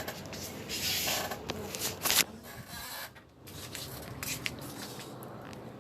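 Handling noise: rustling and scraping with scattered clicks, loudest about two seconds in.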